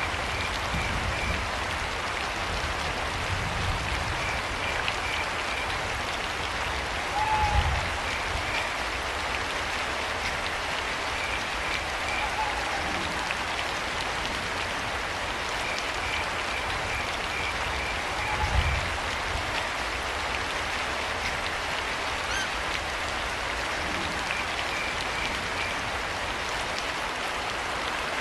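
Steady rain falling, with crickets chirping in short pulsed trills that come and go every few seconds, and a few short owl hoots. Two low thumps stand out, about a third and two-thirds of the way through.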